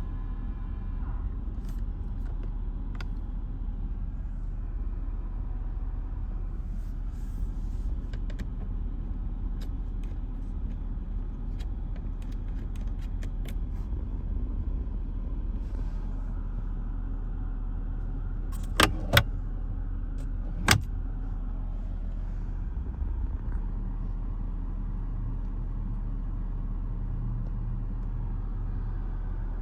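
A car running steadily with a low rumble, and a few sharp clicks about two-thirds of the way through.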